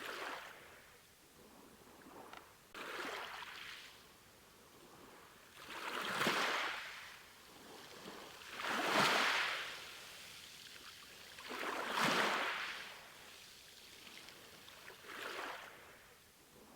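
Sea waves washing in and drawing back, swelling and fading about every three seconds; the middle three surges are the loudest.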